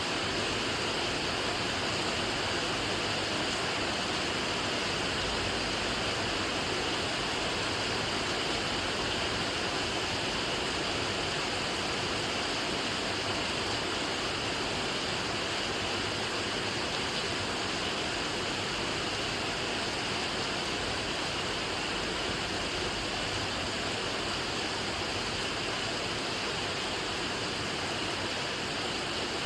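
Steady rain falling: an even, unbroken hiss of many drops, with no single drop standing out.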